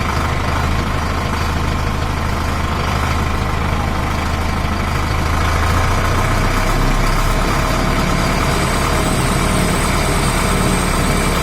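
Tractor engine running steadily. About six seconds in, its low drone shifts lower as the engine slows.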